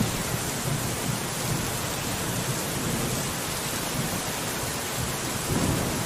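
Steady rain falling on a window, an even hiss with a low rumble underneath that swells briefly near the end.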